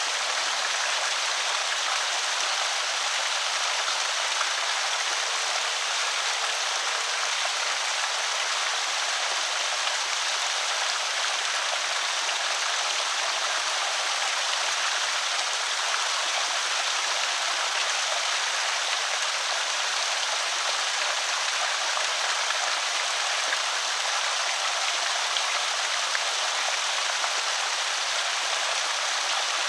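Water spilling over a small creek spillway, a steady splashing rush.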